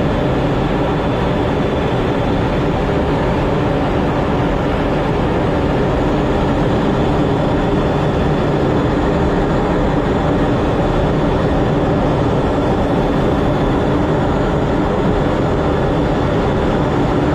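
Jet engines running: a loud, steady rumble with a low hum in it that holds level throughout.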